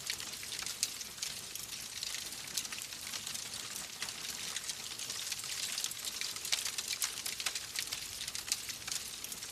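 Wood fire in a fireplace crackling and hissing steadily, with many irregular sharp pops and snaps.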